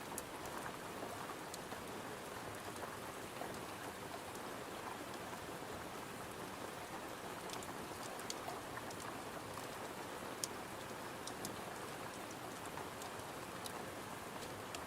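Steady gentle rain falling against a window, with a wood fire crackling in a few sharp, scattered pops.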